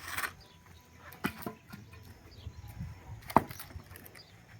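Scattered knocks and snaps of dry wood, with one sharp crack a little over three seconds in.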